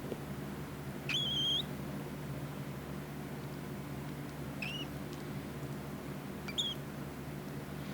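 Cockatiel chick calling three times: one longer call that rises and then holds steady about a second in, then two short calls later on.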